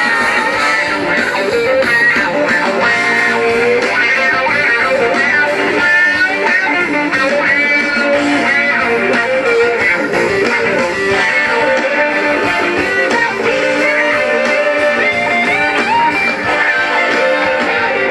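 Band music led by an electric guitar playing a lead line with many gliding, sliding notes over steady chords.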